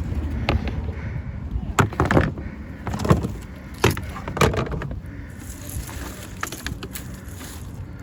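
Christmas decorations being rummaged in a plastic tote: a handful of sharp knocks and clatters in the first half, over a steady low wind rumble on the microphone.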